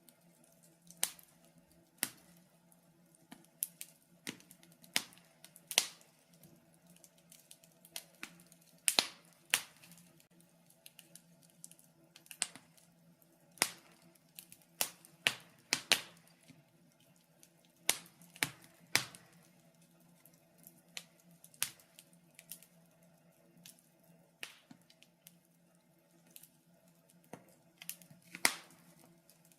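Wood fire crackling in a fireplace: irregular sharp pops and snaps, sometimes several in quick succession and sometimes a second or two apart, over a faint steady low hum.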